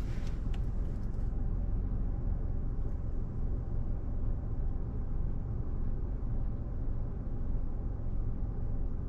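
Steady low rumble of a car's idling engine heard from inside the cabin.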